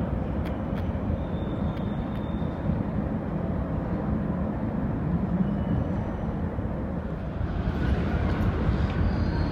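Rubber-tyred Paris Métro Line 14 train running: a steady low rumble with a faint hum, growing louder and hissier about eight seconds in.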